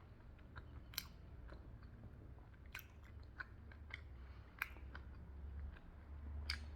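Close-miked chewing of chilli chicken momo (steamed dumplings), soft and wet, with a few sharp clicks spread through it.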